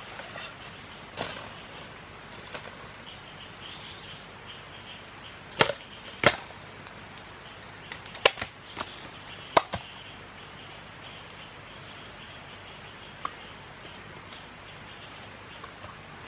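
A series of sharp, short knocks or snaps at irregular intervals over a faint steady background hiss. The loudest come in a cluster of about half a dozen near the middle.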